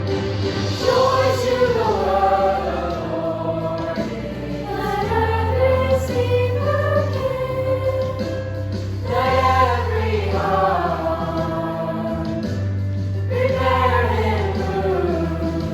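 Choir singing a holiday song with accompaniment: sung phrases that fall in pitch, repeated about every four seconds, over steady held bass notes.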